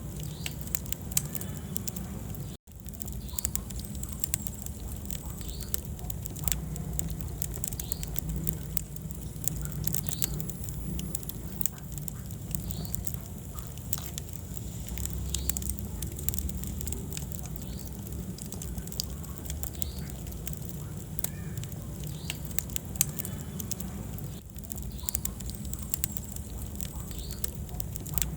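Wood fire burning in a fireplace: constant small crackles and pops over a steady low rumble of the flames. The sound cuts out for an instant about two and a half seconds in.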